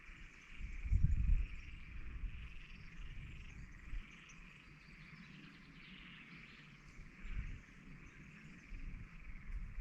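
A continuous high-pitched chorus of small calling animals, with a low rumble about a second in and a few softer low bumps later.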